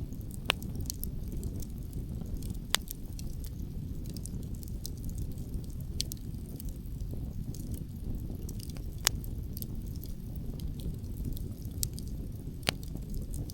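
Wood campfire burning, with a scatter of light crackles and about five sharp pops from the burning logs, over a steady low rumble.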